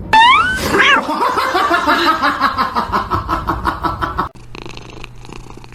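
A cat calling: one sharply rising meow, then a rapid run of short repeated cries for about three seconds, which cuts off suddenly. A quieter low steady hum follows.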